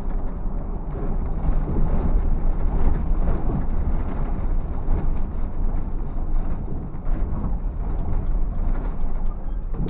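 Scania bus driving with a steady low engine and road rumble, shaken by frequent irregular knocks and rattles as it goes over a rough, badly surfaced road.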